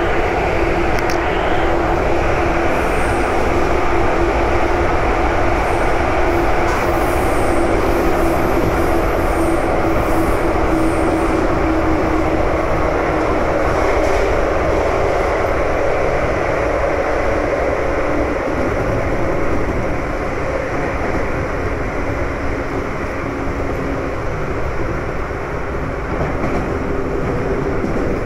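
JR 415 series electric multiple unit running along the line: a steady rumble and rail noise with a faint whine that fades partway through, easing slightly in loudness about twenty seconds in.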